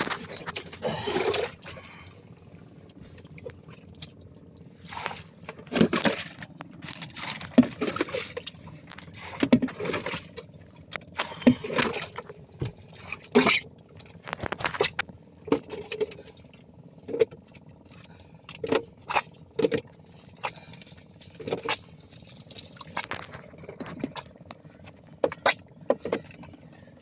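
Irregular knocks, rattles and splashes of a fishing net being hauled aboard a boat and the catch handled, with a faint steady low hum underneath.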